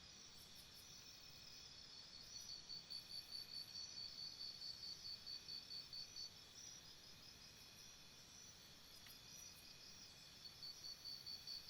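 Faint jungle ambience of insects chirping: several high trills layered together, with one louder chirp pulsing about four times a second that stops for a few seconds in the middle and comes back near the end.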